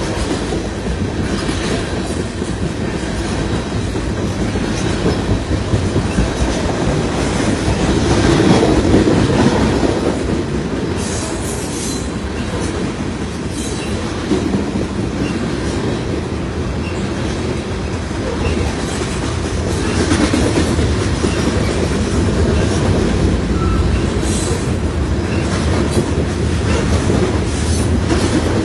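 CN freight train rolling past, the railcar wheels clicking over the rail joints in a steady clatter, with brief high wheel squeals a couple of times.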